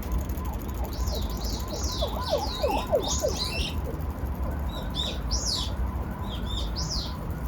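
Small birds chirping in quick high falling notes, in clusters about a second in and again near the end, over a steady low rumble.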